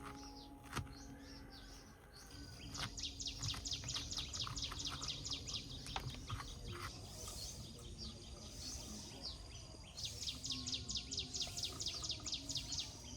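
Birds calling outdoors: a rapid, even series of high chirps, about five a second, comes in two bouts, the second starting about ten seconds in, with scattered single chirps between them.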